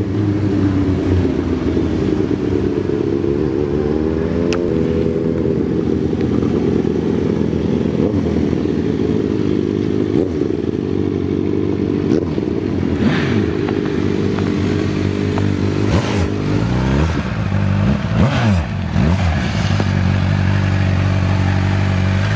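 Several vehicle engines running loud and close, their pitch rising and falling as they rev and move past one another.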